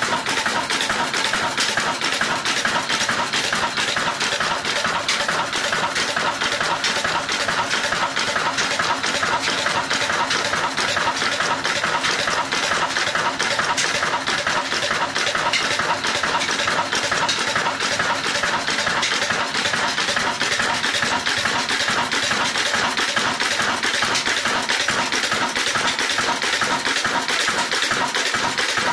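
Ruston Hornsby-type single-cylinder diesel engine running steadily with rapid, even exhaust beats while driving a chakki flour mill.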